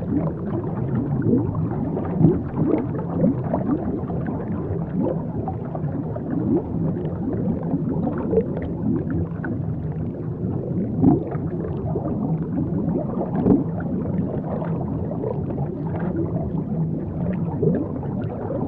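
Underwater ambience: a dense, steady stream of low bubbling and gurgling blips over a constant low hum.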